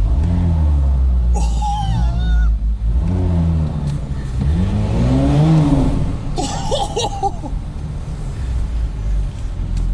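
Audi S4 3.0 TFSI V6 engine revved in several blips through its exhaust, rising and falling in pitch, with the longest and highest rev about five seconds in.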